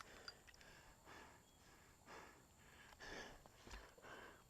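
Near silence, with a few faint, brief noises.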